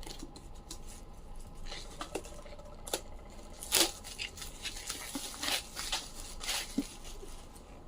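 Packaging being handled and unwrapped around a book: scattered rustles and short crinkles, loudest around the middle.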